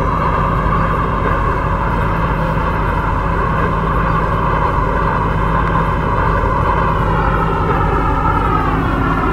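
Kwun Tong line C-Train electric train running, a steady low rumble under a pitched traction-motor whine. About seven seconds in the whine starts to fall in pitch as the train slows.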